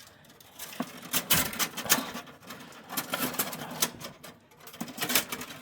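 Irregular clicks, taps and rustling of objects being handled and straightened by hand.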